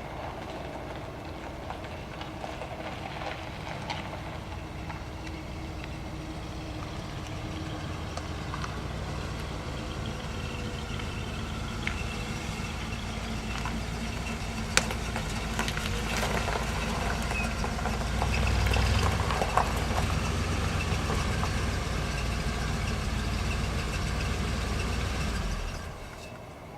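A vehicle engine running steadily with a low rumble that slowly grows louder, then cuts off suddenly near the end.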